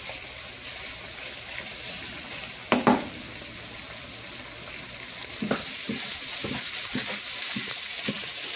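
Beef and onions frying in hot oil, sizzling steadily. A single clank sounds about three seconds in, and after about five and a half seconds the sizzle grows louder with a run of short stirring strokes in the pan.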